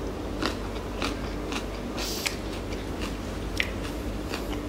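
Raw onion being bitten and chewed, a run of irregular crisp crunches.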